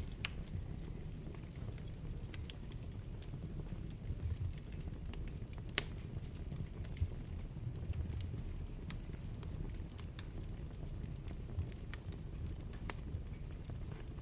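Wood fire burning in a fireplace: a steady low rumble of flames with irregular crackles and pops, one sharper pop about six seconds in.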